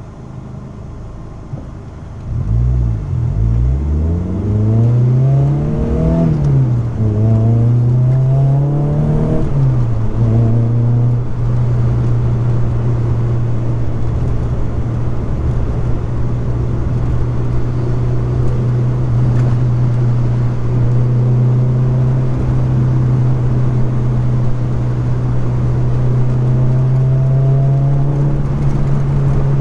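Car engine pulling away and accelerating, its pitch climbing and dropping back at two upshifts, then holding a steady note at cruising speed that rises slightly near the end.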